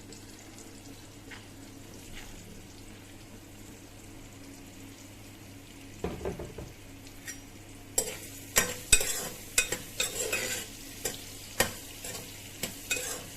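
Sliced onions frying in hot oil in a pressure cooker: a faint steady sizzle at first, growing louder about six seconds in. From about eight seconds a utensil clicks and scrapes sharply against the metal pot as the onions are stirred.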